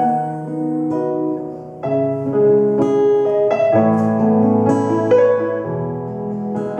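Instrumental interlude of a Mandarin pop ballad: piano playing chords and a melody line, with no singing.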